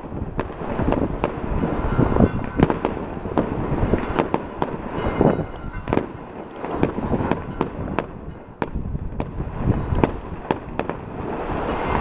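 Fireworks going off: a dense, irregular string of bangs and crackles, with a short lull about two-thirds of the way through before the bangs pick up again.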